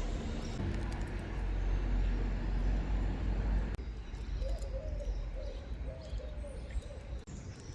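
A steady low rumble of outdoor background noise, then a dove cooing in a wavering low call a little past halfway through.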